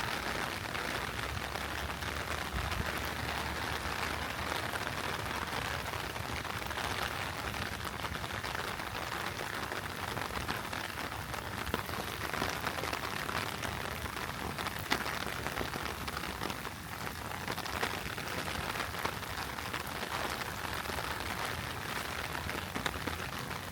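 Heavy rain pouring steadily, with scattered sharper drop ticks standing out from the dense patter.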